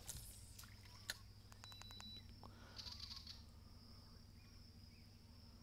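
Near silence: faint outdoor ambience with a low steady hum and a thin steady high tone, broken by a single light click about a second in and a few faint ticks.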